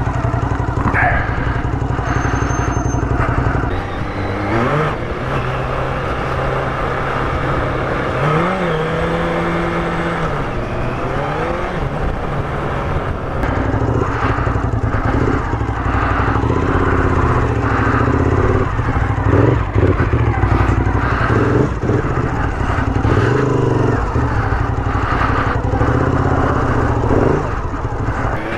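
Sport motorcycle engine running under way, its revs climbing and dropping back several times as the rider works the throttle and gears.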